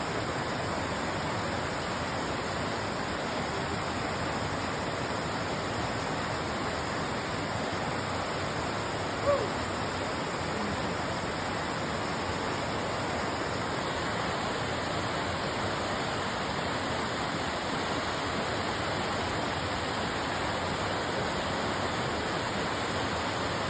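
Waterfall water rushing steadily, with one brief louder sound about nine seconds in.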